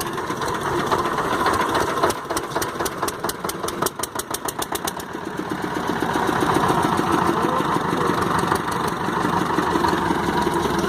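A small fishing boat's engine running with a fast, even knock. About halfway through it picks up and grows louder, then runs steadily.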